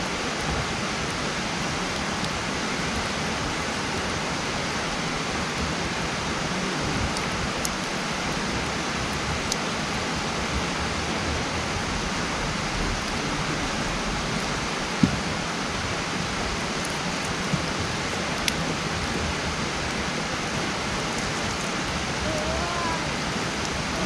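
Wood campfire burning, a dense steady crackle with a handful of sharp pops from the burning wood, the loudest a little past the middle.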